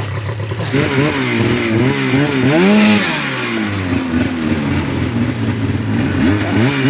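Snowmobile engine revving up and down repeatedly under load as the sled is worked over a downed tree, the highest rev about three seconds in.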